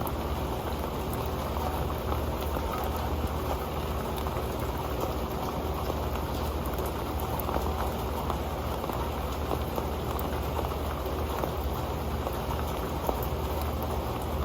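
Rain falling on an old pan: a steady, dense patter of many small drops, heaviest in the low and middle range.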